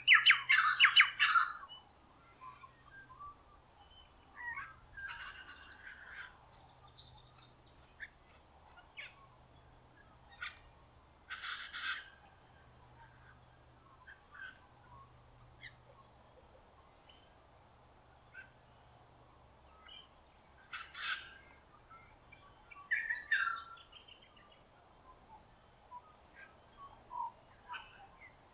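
Wild birds calling: a loud, harsh, rapid call in the first second or two, then scattered short chirps and whistles.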